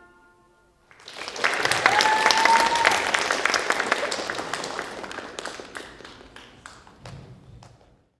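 The last note of the music dies away, then an audience breaks into applause about a second in, loudest early and thinning out toward the end. One voice gives a held, rising whoop about two seconds in.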